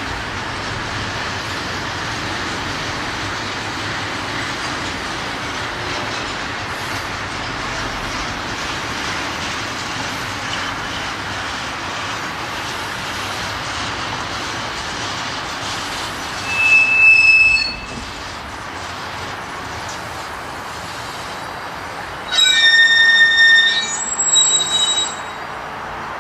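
Freight train rolling by with a steady noise of wheels on rail as it brakes to a stop. A short, loud, high squeal comes about two-thirds of the way in, and a longer squeal with several high tones at once comes near the end.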